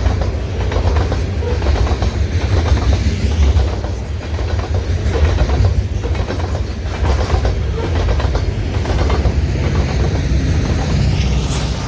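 Freight train rolling past: wheels clacking over the rail joints over a steady low rumble.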